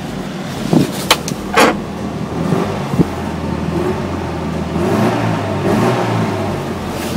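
Classic Mini's A-series engine running steadily, its note picking up a little in the middle, after a few sharp clicks about a second in.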